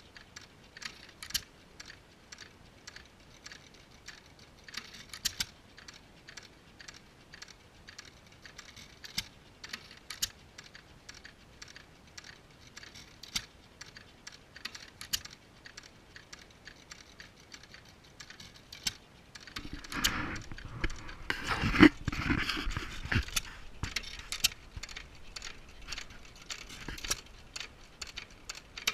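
Antique hit-and-miss engines running, heard mostly as a stream of irregular sharp clicks and ticks, with a louder, fuller stretch about two-thirds of the way in.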